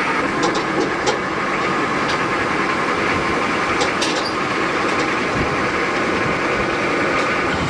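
Steady engine and road noise of a moving vehicle, with a few faint clicks or rattles.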